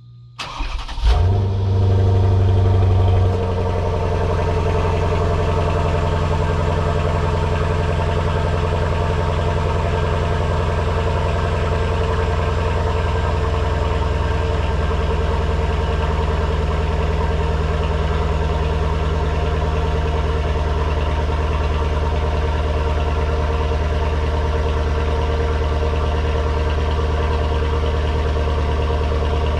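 Mercedes-Benz W222 S550's twin-turbo V8 through a resonator-delete exhaust, cold-started: a brief crank, the engine catches about a second in and holds a loud high idle, then drops a little just after three seconds and settles into a steady cold idle.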